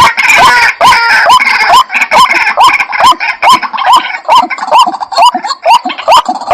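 White-breasted waterhens calling: a loud, rapid series of hooked, rising notes repeated about three times a second. Several calls overlap in the first second or so, then settle into one steady repeating rhythm. This is a recorded lure call used to bring waterhens in.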